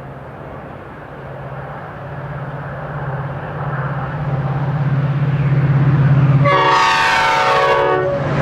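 Metra diesel passenger locomotive approaching and growing steadily louder. About six and a half seconds in, its horn sounds for about a second and a half, the pitch dropping as it passes.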